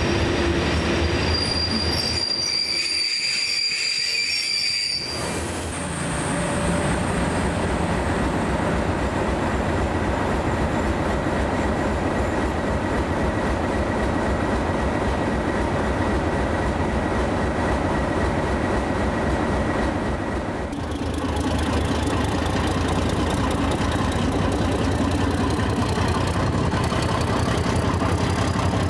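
A train running through the station, a steady loud rumble throughout. A thin, high wheel squeal comes in about two seconds in and lasts a few seconds, and a fast rhythmic rattle of wheels takes over for the last third.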